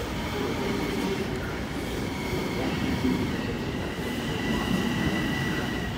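Long Island Rail Road electric multiple-unit train running past along the platform. Its wheels give a steady rumble on the rails, with a faint high steady tone above it.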